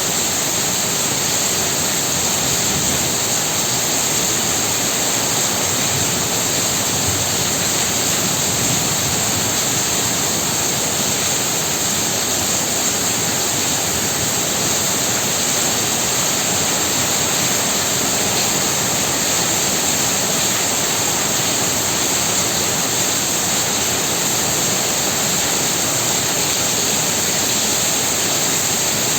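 Heavy rain pouring steadily, an even, unbroken rush of noise.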